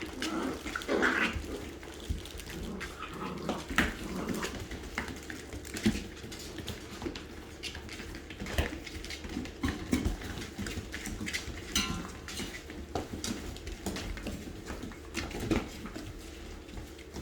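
Six-week-old Great Dane puppies playing: irregular knocks, clatters and scuffles of paws and toys, with a few short puppy whimpers and yips.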